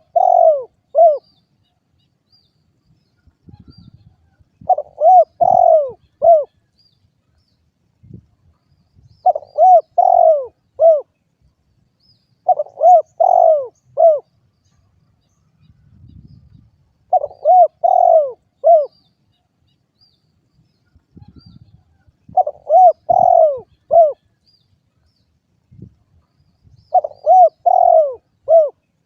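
Spotted dove (derkuku) cooing: a repeated phrase of four or five quick, arched coos, given about every four seconds, seven times.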